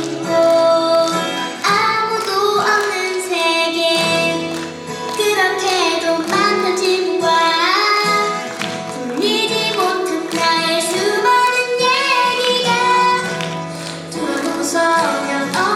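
A song with instrumental backing and a sung melody, with children's and a woman's singing voices.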